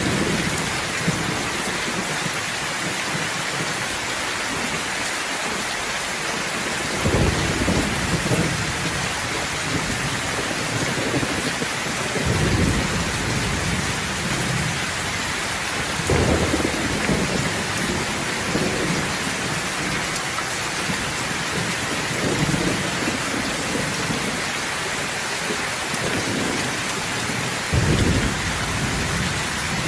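Steady rain hiss with low thunder rumbles swelling up every few seconds, about five times.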